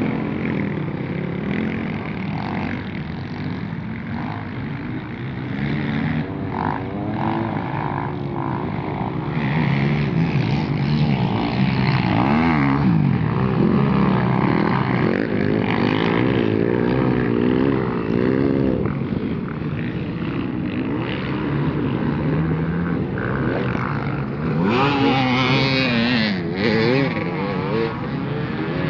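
Several motocross bikes' engines revving up and down as they ride the track, their pitch rising and falling over one another, with a fuller, brighter burst about three-quarters of the way through.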